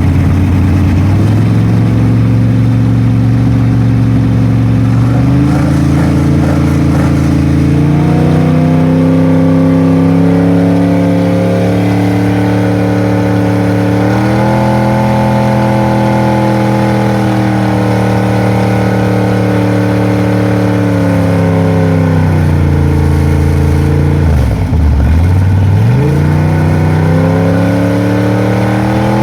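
V8 stock car engines running hard on the track, the pitch climbing in steps and holding, then falling back as the throttle eases, with cars sweeping past near the end.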